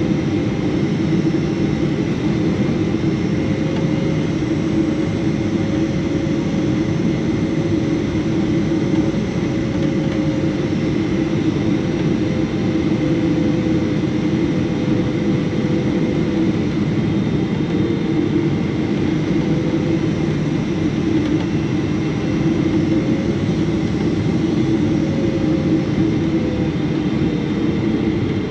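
Boeing 777-300 cabin noise heard from a window seat: the steady roar of the jet engines and airflow, with a faint engine tone that wavers slightly in pitch.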